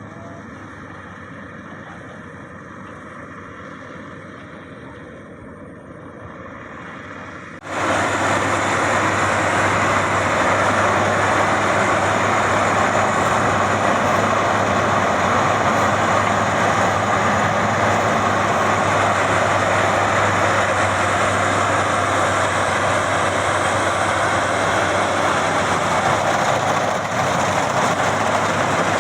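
Maxxi Bimo 102 X Top combine harvester running steadily with a constant low hum. About eight seconds in, the sound jumps abruptly to a much louder, dense mechanical din that holds steady.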